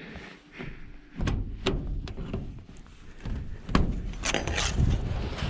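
A few sharp knocks and clicks, spaced irregularly over a low rumble.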